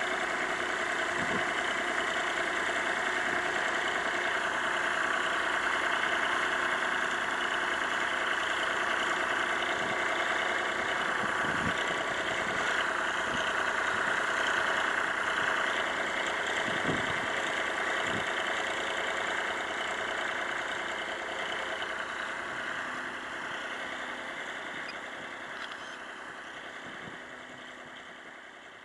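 Ford 4600 tractor engine running steadily, with a few faint low thuds around the middle; the sound fades out over the last several seconds.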